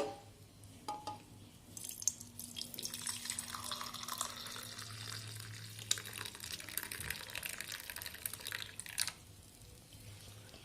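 A thin stream of liquid running and splashing faintly for about seven seconds, after a couple of light clinks of kitchenware at the start.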